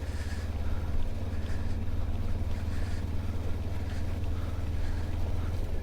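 Mutt Stravaig motorcycle engine running steadily while it is ridden along a muddy trail.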